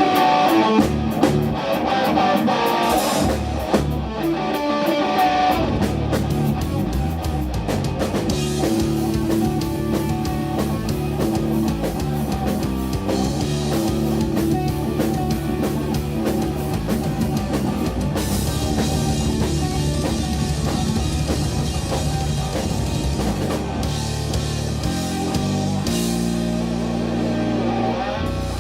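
Live rock trio playing: electric guitar, bass guitar and drum kit, the end of an instrumental song played loud.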